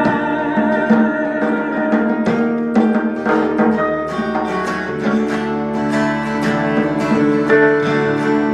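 Instrumental break in a song: acoustic guitar picking over held notes, with no singing.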